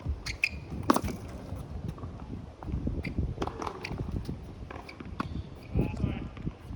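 Tennis balls bouncing and being struck with racquets during a rally drill: irregular sharp knocks, the loudest about a second in.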